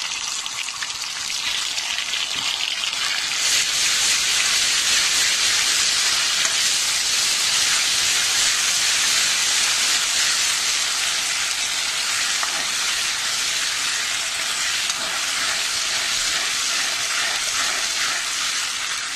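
Sliced onions and freshly added ginger-garlic paste sizzling in hot oil in a kadhai, a steady frying hiss that grows louder a few seconds in and then holds.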